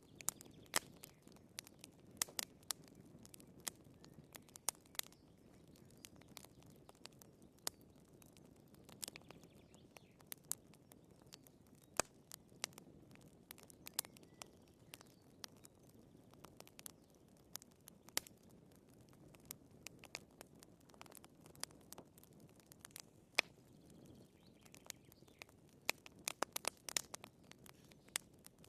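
Wood fire crackling in a fireplace: irregular sharp pops and snaps over a soft low hiss of burning, with a brief cluster of quick pops near the end.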